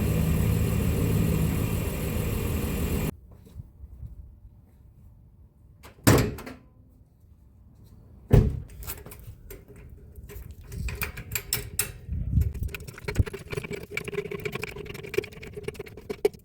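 A car engine idling steadily, which cuts off abruptly about three seconds in. Then two loud thumps a couple of seconds apart, a car door shutting, followed by scattered light clicks and rattles.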